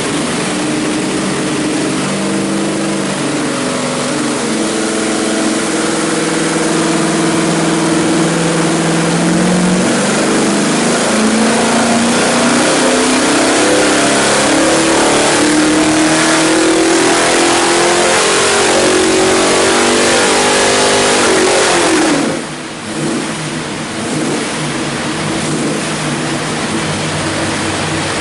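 489 cubic-inch big-block Chevrolet stroker V8 with a hydraulic roller cam, running on an engine dyno during a dyno pull. It holds a steady speed, then revs up in one long steady rise under load. About three quarters of the way in the throttle comes off and it drops back to a lower steady speed.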